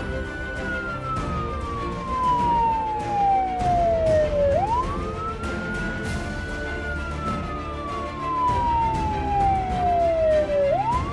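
Emergency vehicle siren wailing: each cycle rises quickly to a high pitch, holds briefly, then falls slowly over about four seconds, repeating about every six seconds, with a new rise starting near the end. Background music plays underneath.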